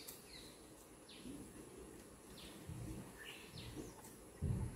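A bird calling repeatedly with short, faint, falling whistles, about one a second, over low outdoor background noise. A brief low rumble comes near the end.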